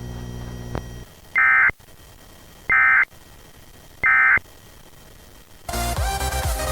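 EAS end-of-message signal from a Sage EAS ENDEC 1822: three short digital data bursts, about 1.3 s apart, that mark the end of the alert. A low hum cuts off about a second in, and music begins near the end.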